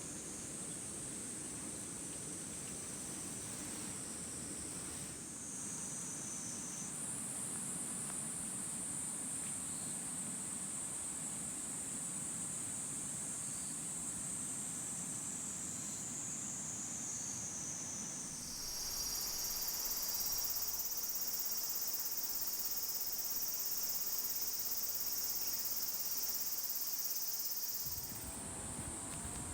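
A steady, high-pitched chorus of insects chirring, its pitch and loudness shifting abruptly a few times, over a low background rumble.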